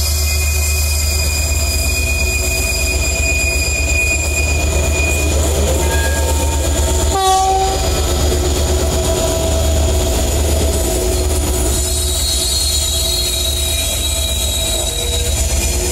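Aurizon 2300-class diesel-electric locomotives hauling a coal train past on a curve, with a steady heavy engine rumble and a high squeal of wheels on the curved track. A brief sharp sound comes about seven seconds in.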